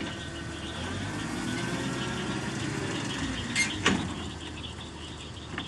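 Ford 300 cubic-inch straight-six idling steadily with a faint whine above it. Two sharp knocks come about three and a half seconds in.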